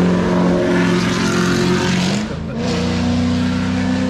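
A loud, steady pitched drone from a vehicle. Its pitch dips briefly about two seconds in, then holds a little higher.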